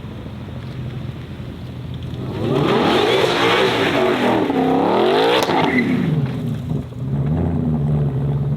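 A performance car at full throttle, its engine climbing in pitch through the gears and dropping in pitch as it passes by about halfway through.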